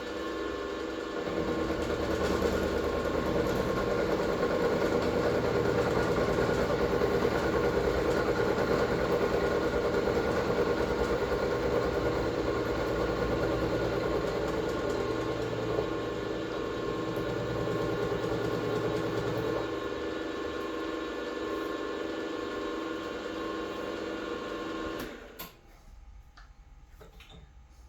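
An electric machine tool runs steadily with a steady whine. It grows louder from about a second in, as if working under load, eases somewhat around two-thirds of the way through, then stops abruptly near the end.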